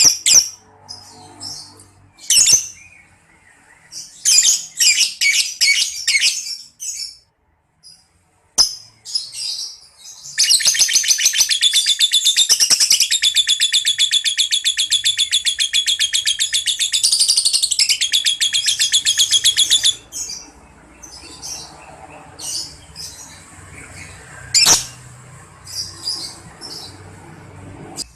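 Lovebird calling: scattered high chirps, then a long rapid chattering trill (ngekek) lasting about ten seconds, then more scattered chirps and one sharp chip near the end.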